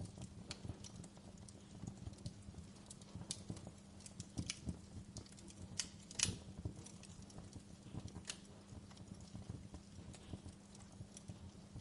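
Wood fire crackling: irregular sharp pops and snaps over a low steady rumble, with one louder pop about six seconds in.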